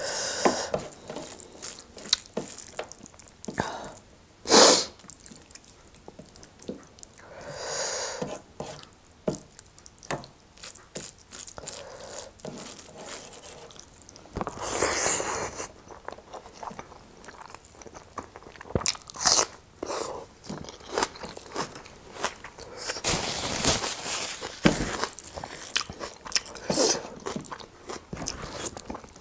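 Close-up eating sounds: chewing pork trotters and rice, with many wet mouth clicks and several louder bursts a few seconds apart.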